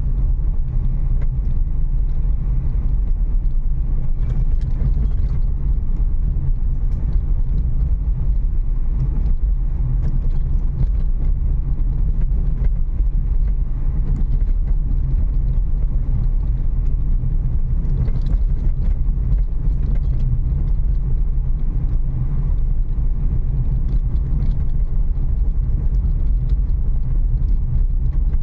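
Steady low rumble of a Renault Kiger car driving slowly over a rough, broken forest road, heard from inside the car: road, tyre and suspension noise with occasional faint knocks.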